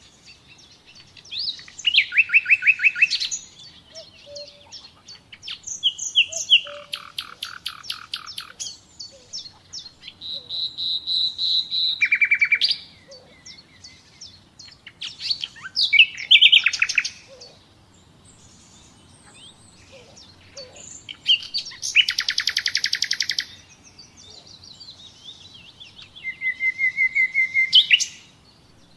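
Common nightingale singing: separate phrases of one to three seconds, built of fast repeated notes, rattling trills and pure held whistles, with short pauses between them.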